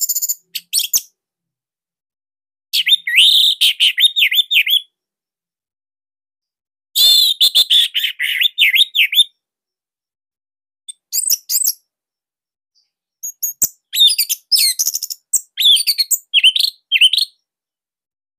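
Orange-headed thrush singing: five bursts of rapid, varied, high whistled and sweeping notes, each lasting one to four seconds, separated by pauses of a couple of seconds.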